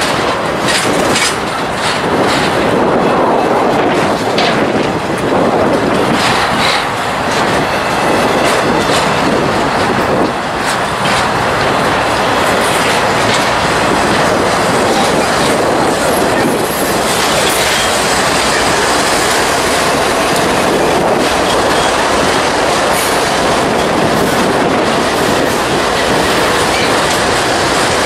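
Freight trains passing close by: intermodal well cars rolling on steel wheels, clattering over the rail joints with some wheel squeal, as a second train led by BNSF diesel locomotives passes on the adjacent track. Loud and continuous throughout.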